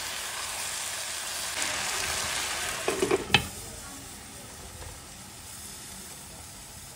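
Diced potatoes and capsicum sizzling in a frying pan while being stirred with a spatula, with a sharp clack at about three and a half seconds as a glass lid is set on the pan; the sizzle then goes on more quietly under the lid.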